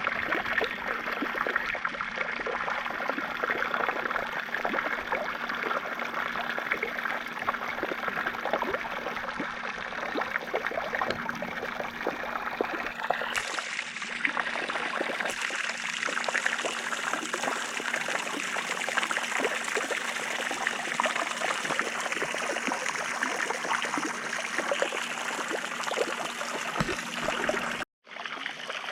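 Water pouring steadily from an Intex 28089 pool waterfall fountain and splashing down, with a low steady hum underneath. The sound cuts out for a moment near the end.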